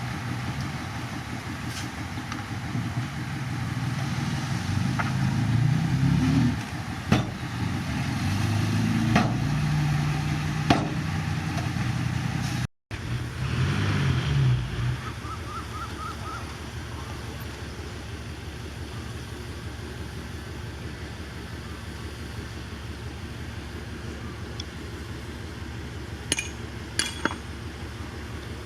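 Heavy construction machinery's diesel engine running under load, its note shifting, with sharp metallic clanks every few seconds. After a brief cut about halfway, a quieter steady engine drone continues, with a few clicks near the end.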